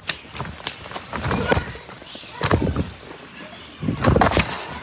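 Indistinct children's voices and shouts in several short bursts, with a few sharp knocks between them.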